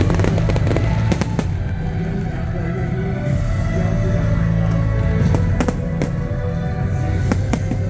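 Aerial fireworks bursting in clusters of sharp bangs and crackles over loud, steady music.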